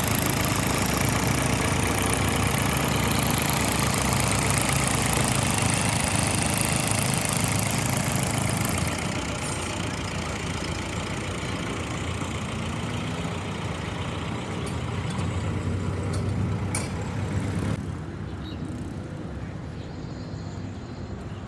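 A vehicle engine running steadily, growing quieter about nine seconds in and dropping sharply near the end.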